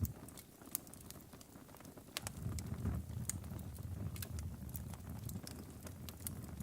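Logs burning in a fireplace: irregular sharp crackles and pops over a low rumble of the flames. The rumble drops away for about two seconds near the start, then returns.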